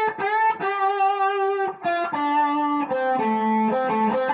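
Guitar playing a single-note blues lick: a few bent notes at the start, then a string of notes stepping down the minor pentatonic scale.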